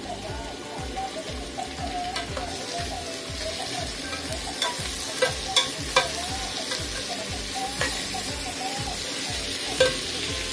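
Chopped tomatoes and onions sizzling in an aluminium pot while a metal spoon stirs them, the spoon clinking against the pot several times, mostly around the middle.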